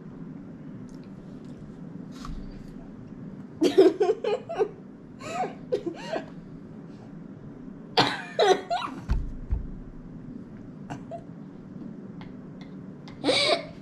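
A girl's laughing fits in several bursts of short breathy pulses, over a steady low room hum.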